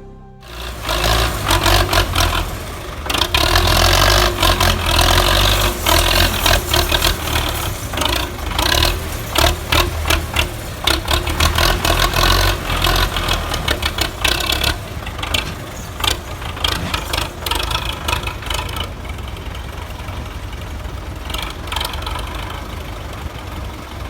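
Belarus 510 tractor's four-cylinder diesel engine running hard under load, hauling a heavily loaded sugarcane trailer, with a lot of clattering and rattling. About two-thirds of the way through it settles into a steadier, somewhat quieter run.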